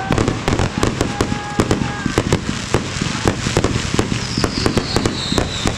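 Fireworks going off in a rapid, continuous barrage of sharp bangs and crackles, several a second. About four seconds in, a faint high whistle falls in pitch.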